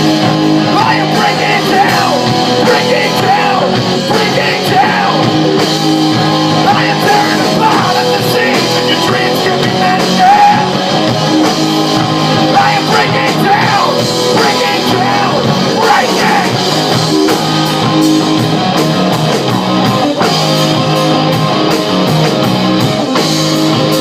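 Loud rock music: a band playing an instrumental passage of a song, with pitch bends in the lead line and no lyrics recognised.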